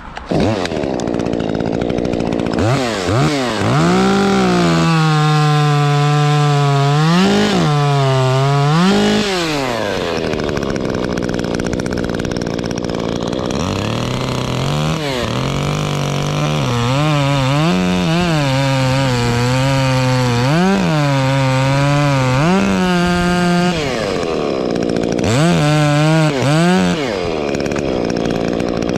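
Stihl 150T top-handle chainsaw with an opened-up muffler, cutting birch. It is revved again and again, the pitch dipping and rising as the chain loads in the wood, and drops back to a lower, even run about ten seconds in before throttling up for a second spell of cutting.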